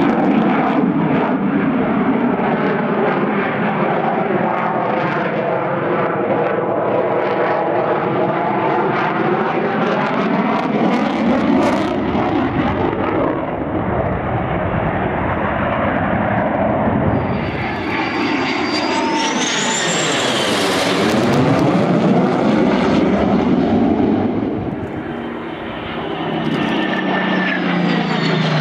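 Military display aircraft engine noise as an aircraft flies past, its sound sweeping in pitch as it comes and goes. The closest pass comes about two-thirds of the way through, with a high whine gliding up.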